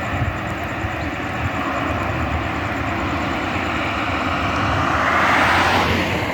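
A vehicle passing: a rushing noise swells slowly to its loudest about five and a half seconds in, then falls away.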